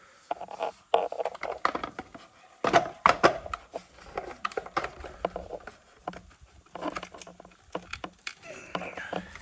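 Irregular knocks and clatter of tools and material being handled, with some rustling, and no saw running.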